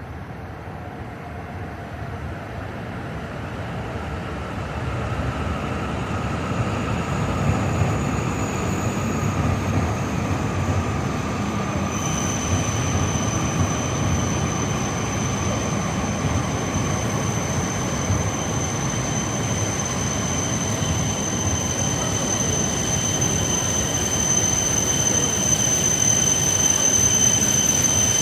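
Tohoku Shinkansen train moving along the platform, its running noise growing louder throughout, with a slowly falling whine early on and a steady high-pitched wheel squeal that sets in about halfway through.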